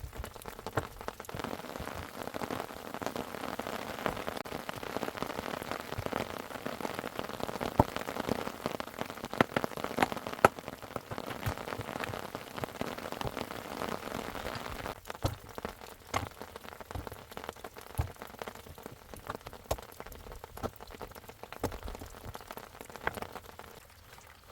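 Rain falling steadily, a dense hiss of many small drop impacts. About fifteen seconds in it thins out to scattered separate drips.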